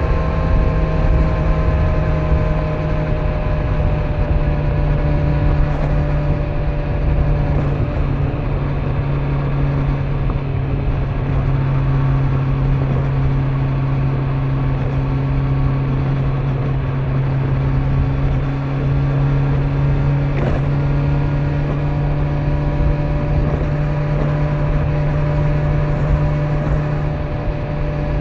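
Kawasaki Z900's inline-four engine on its stock exhaust, cruising at steady revs under a layer of wind and tyre noise. The engine note sags slightly in the middle and climbs back up near the end.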